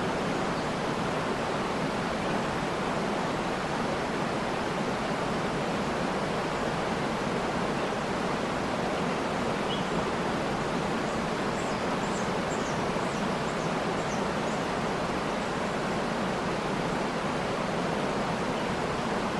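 Waterfall rushing steadily, with a few faint, short, high bird chirps about halfway through.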